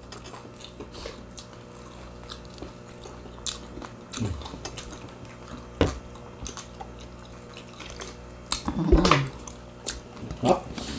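Eating sounds of chicken wings being chewed, with scattered small clicks and knocks against plates, over a steady low hum. There is a brief murmur of a voice near the end.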